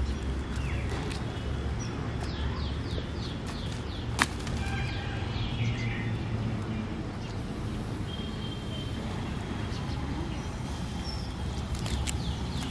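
Outdoor ambience of small birds chirping in short quick runs over a steady low rumble, with one sharp click about four seconds in.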